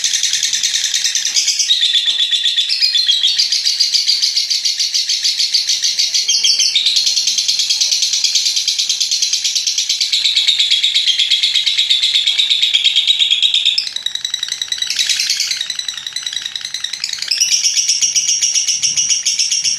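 A lovebird's 'ngekek panjang', its long, rapid, high-pitched chattering trill, sung almost without a break. It grows a little weaker about two-thirds of the way through, then picks up again near the end.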